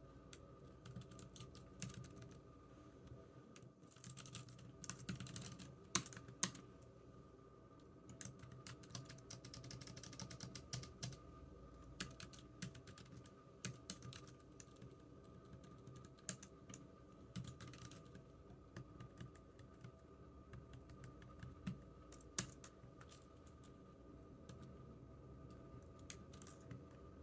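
Computer keyboard typing: irregular keystrokes coming in quick flurries with short pauses between, a few keys struck noticeably louder.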